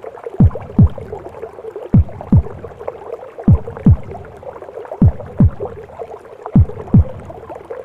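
Womb-sound recording of a mother's heartbeat: five slow double thumps (lub-dub), one about every one and a half seconds, each dropping in pitch, over a steady whooshing background.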